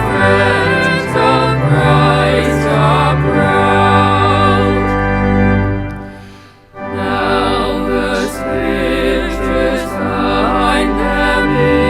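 Recorded music of voices singing with vibrato over long held low accompanying notes. About six seconds in the music fades down, then a new passage starts abruptly a moment later.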